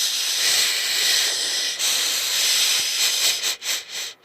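A person shushing: a long, drawn-out "shhh" that breaks into a few short shushes near the end.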